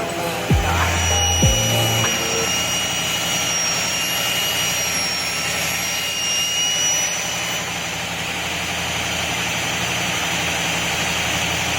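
Aluminium-cutting machine running steadily: an even mechanical hiss with a thin, steady high whine.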